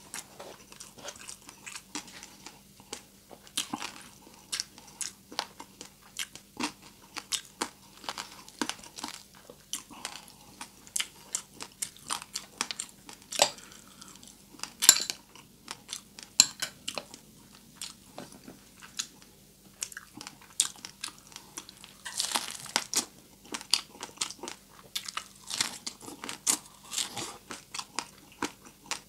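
A person biting and chewing crispy deep-fried pork close to the microphone: a long run of sharp crunches between chewing, the loudest about halfway through.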